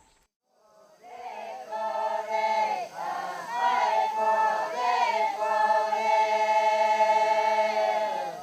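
A group of voices singing a chant together, beginning about a second in, the melody moving up and down and then settling into long held notes that fade near the end. The singers are Katukina people, singing a Katukina song.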